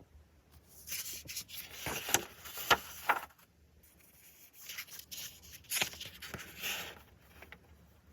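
Rubbing and scraping handling noise with sharp clicks, in two spells of a few seconds each.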